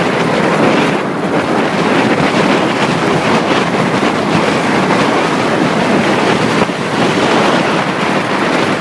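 Steady wind rush on the microphone of a moving motorcycle, with engine and road noise underneath.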